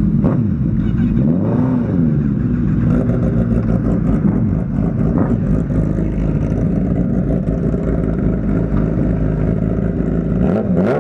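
Kawasaki Z900 inline-four running through an SC-Project full-system exhaust: a loud, steady idle with one brief blip of the throttle about a second and a half in.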